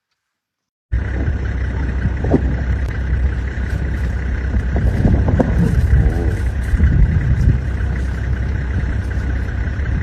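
A vehicle engine running with a steady low rumble. It cuts in abruptly about a second in, and a few short pitched calls or voices rise and fall over it.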